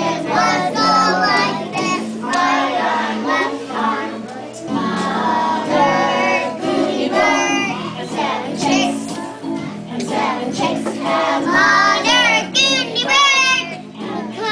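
A group of children singing a song together over sustained musical accompaniment.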